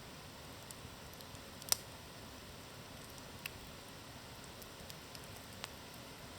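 Wood campfire burning with a steady soft hiss and a few sharp crackles and pops, the loudest a little under two seconds in.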